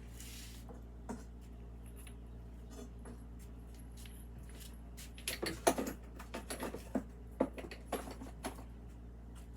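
Fired, glazed ceramic pieces clinking and knocking against each other and hard surfaces as they are handled out of a kiln: one light knock about a second in, then a run of sharp clicks and knocks from about five to eight and a half seconds.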